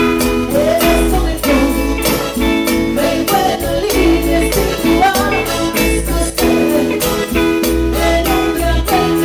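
Cumbia band playing: a steady percussion beat under held keyboard chords, with a melodic lead line bending over them.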